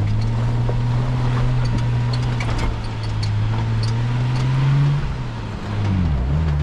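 Car engine running as the car drives, its pitch climbing slowly, then falling away about five seconds in and picking up again lower near the end, with scattered light clicks.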